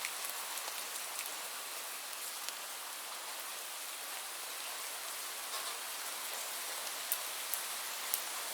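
Steady rainfall: an even hiss of falling rain with scattered individual drops ticking sharply on a surface, a few louder drops near the end.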